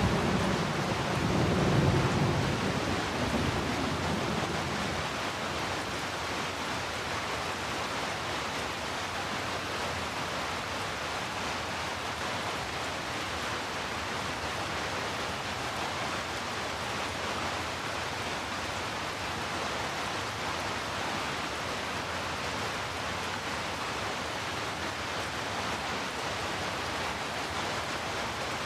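Steady rain falling, an even hiss. A low rumble of thunder, loudest about two seconds in, rolls away over the first few seconds.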